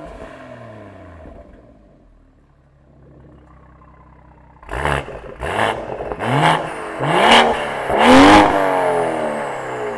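BMW 540i's B58 turbocharged 3.0 L inline-six, through a downpipe, valved end muffler and sport resonator exhaust, is heard in this sequence. First its revs fall back to idle. The engine then idles quietly for a couple of seconds. Then it takes five quick throttle blips, each rising and dropping back, getting louder, with the last and longest blip near the end.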